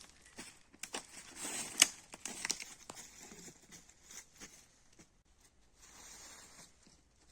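Dry rustling and crinkling, broken by sharp snaps and clicks, loudest about two seconds in, with a softer rustle near the end.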